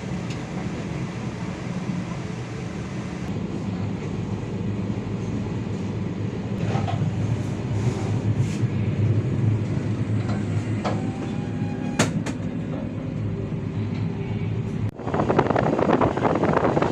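Train running at speed, heard from inside a passenger coach: a steady low rumble with a few sharp clicks from the wheels and rails. About fifteen seconds in, the sound changes abruptly to a louder rushing noise.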